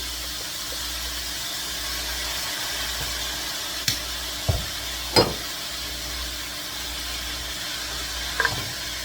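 Egg roll filling of ground pork, mushrooms and cabbage sizzling in a hot pan with a steady hiss. A few sharp knocks or clinks come about four and five seconds in and again near the end.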